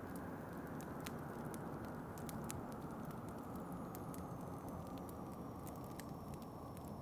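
Wood fire crackling with irregular sharp pops over a steady low rush of wind.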